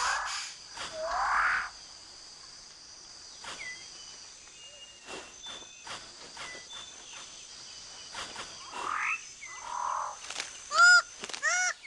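Tropical rainforest ambience: a steady high insect drone with scattered rising bird whistles and chirps. About eleven seconds in, a loud, harsh, honking bird call starts, repeated about every 0.7 seconds.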